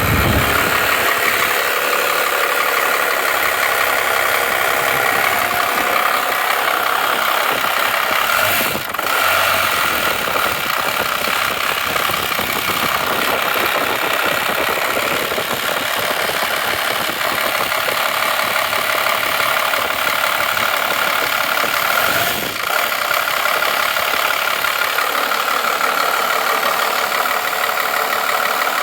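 12-valve Cummins 5.9-litre inline-six diesel running steadily with a dense, even clatter, the engine the owner says makes an odd sound only on start-up.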